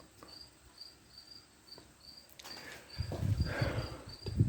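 A cricket chirping steadily, about two short high chirps a second. From about three seconds in, louder irregular low rumbling and knocks of handling noise take over.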